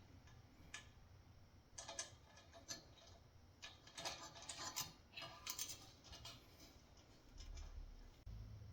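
Faint, scattered light clicks and clinks of metal parts being handled as a propane heater head is fitted onto its tank-top bracket and fastened with a wing nut.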